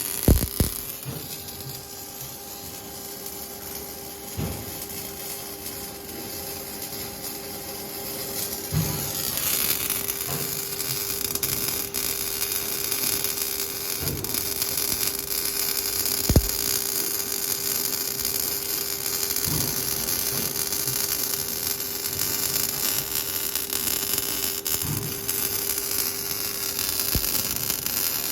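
MIG welding arc burning steadily: a continuous hissing buzz that grows louder about nine seconds in and then holds, over a steady hum.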